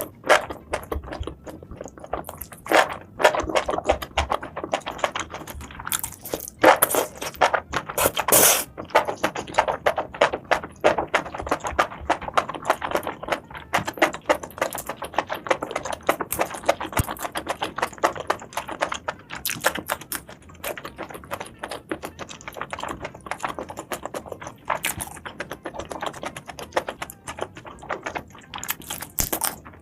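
Close-miked eating sounds from seafood: rapid, irregular crunching, clicking and chewing, louder for a few seconds in the middle.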